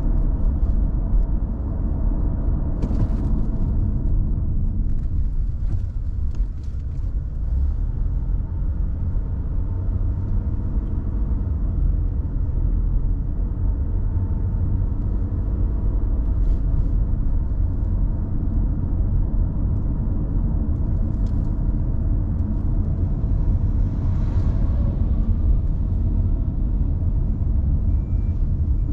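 Car driving at a steady pace, with a continuous low rumble of engine and road noise and a few faint clicks.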